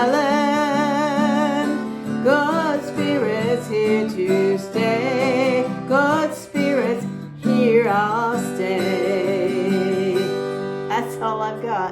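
A woman singing long held notes with vibrato to acoustic guitar strumming, the closing phrases of an original folk-style song.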